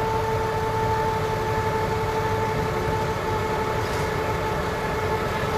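A 5-ton forklift runs steadily, with a low engine rumble under a steady whine.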